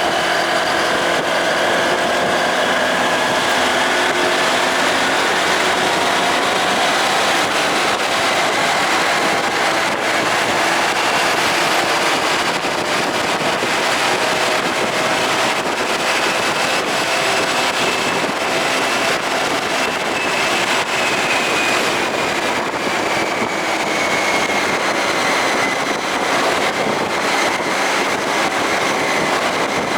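Motorcycle under way: steady engine and road noise with wind rushing over the microphone, the engine's pitch drifting slowly up and down.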